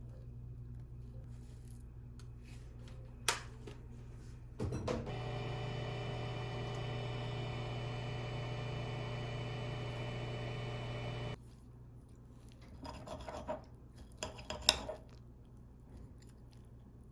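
A click, then a kitchen appliance runs with a steady hum and several fixed tones for about seven seconds before cutting off suddenly. Dishes and utensils clatter a few times afterwards.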